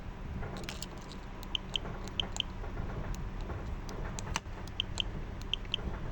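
Short high electronic beeps in pairs, repeating every half second or so, with scattered small clicks over a low steady hum.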